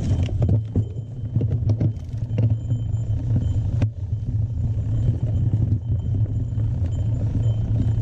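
Mountain bike being ridden over a dirt trail: a steady low rumble with sharp rattling knocks, most of them in the first few seconds.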